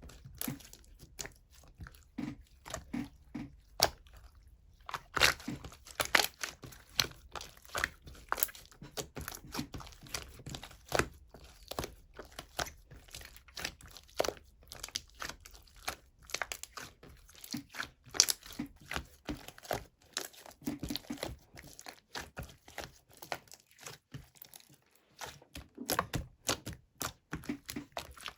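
Green marbled slime with pearl glitter being squished, pressed and stretched by hand, making a steady run of irregular sticky clicks, pops and crackles.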